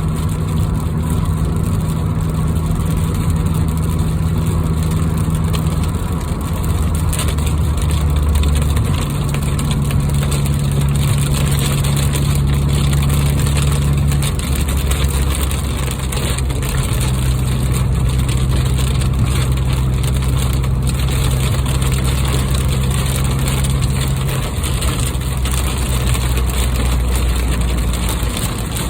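Inside a moving car: steady engine and road drone, its low hum stepping up and down in pitch several times, over a constant hiss.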